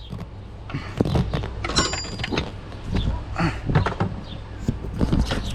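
Ratchet with a T50 Torx socket working the belt-tensioner bolt on a Ford F-150's 4.2L engine: irregular clicks and metal knocks, with a brief high metallic ring about two seconds in, over a steady low hum.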